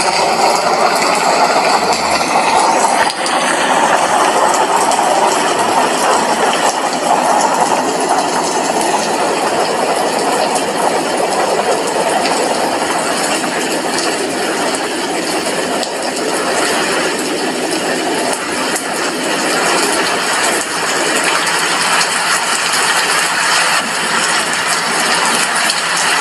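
Steady rain, drops hitting a glass window, heard as a dense, even hiss of many small taps.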